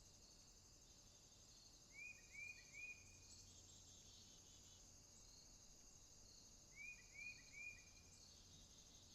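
Faint night rainforest ambience: a steady, high, pulsing chorus of crickets and other insects. An animal call of three quick chirps sounds about two seconds in and again about seven seconds in.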